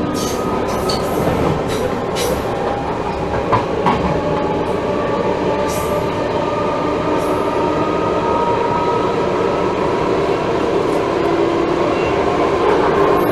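NS class 1700 electric locomotive's traction motors running with a steady whine of several tones, rising slightly in pitch and growing louder near the end. A few sharp clicks sound over it in the first seconds.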